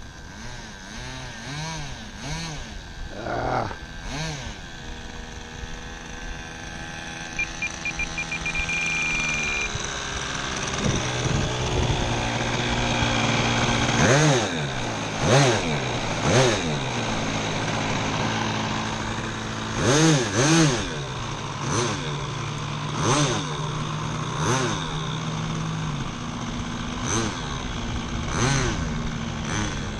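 A small model-airplane glow engine running, its pitch swelling up and falling back again and again as the throttle is blipped or the model passes close.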